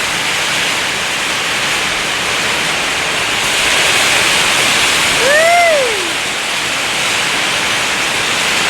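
Heavy rain falling in a steady, loud hiss. A little past halfway a single short pitched call rises and falls over it.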